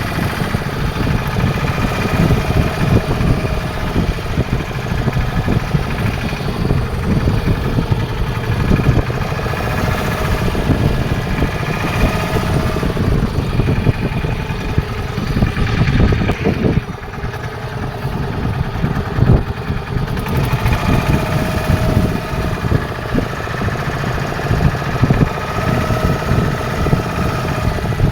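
Fishing boat's engine running steadily, with a dense, rapid low throb.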